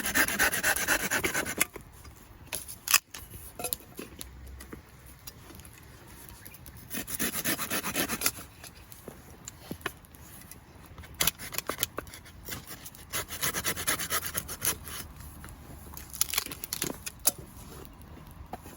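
A knife blade scraping and shaving along a piece of wood in rough, rasping strokes. The strokes come in several clusters with pauses between them, and a few sharp clicks fall in between.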